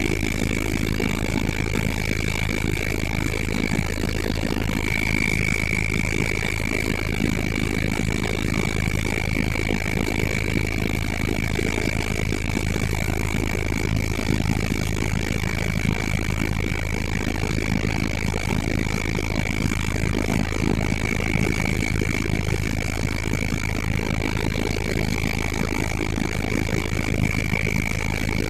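Helicopter running steadily in flight: a constant low rumble with a steady high-pitched whine over it, unchanging throughout.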